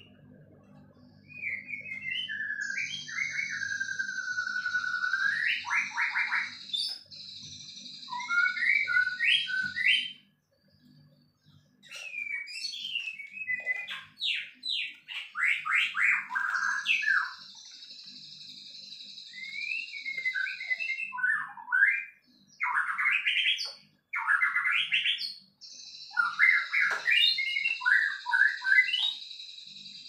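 A songbird singing a varied song of quick whistled sweeps and rapid trills, in phrases broken by short pauses. A steady high, hissing buzz comes and goes three times, in stretches lasting several seconds each.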